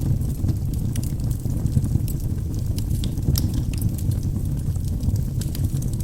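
Logs burning in a wood fireplace: a steady low rumble of flame with frequent sharp crackles and pops, one louder pop a little past the middle.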